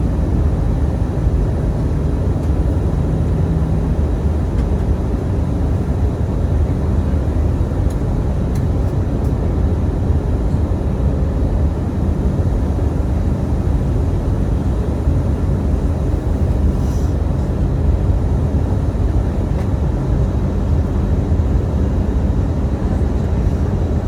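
Steady rumble of an Airbus A319 in flight, the jet engines and airflow running without letup. A faint hum fades out about four seconds in.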